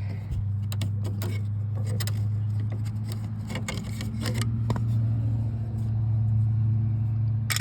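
Scattered light clicks and knocks of door trim parts and screws being handled, over a steady low hum.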